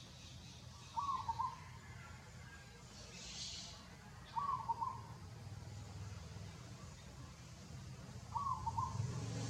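A bird repeating a short call of a few quick notes three times, every three to four seconds, over a low steady background rumble.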